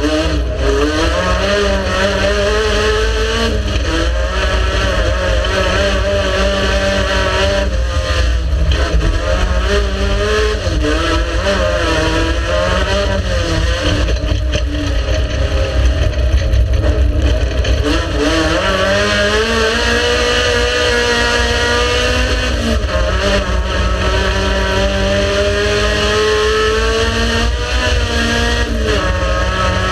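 Race car engine running hard throughout, its pitch climbing and dropping again and again as it revs and shifts gears, over a heavy rumble.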